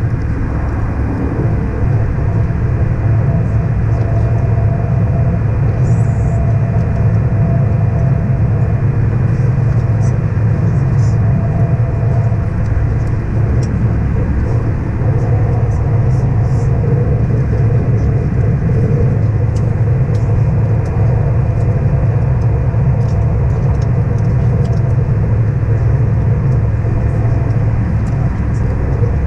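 Airbus A319 cabin noise in flight: a steady, loud low rumble of engines and airflow with faint steady tones over it, unchanging throughout.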